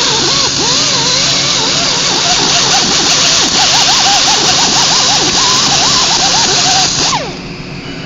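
Hand-held power sander grinding against the steel frame of a railroad traction motor, cleaning old silicone and rough ridges off a bolt seat, with a steady harsh hiss and a wavering whine. About seven seconds in the grinding cuts off sharply.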